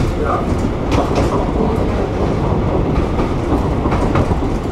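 Narrow-gauge heritage train running along the track: a steady rumble of wheels on rail, with irregular clicks as the wheels pass over rail joints.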